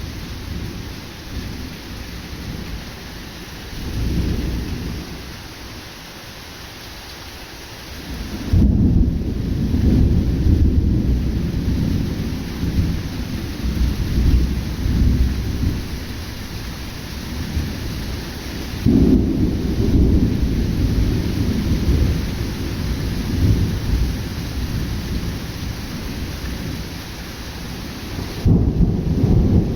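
Steady heavy rain from a sudden summer thunderstorm, with thunder rumbling over it: a short rumble about four seconds in, a long loud roll starting about eight seconds in that goes on for several seconds, another near twenty seconds, and a fresh loud one just before the end.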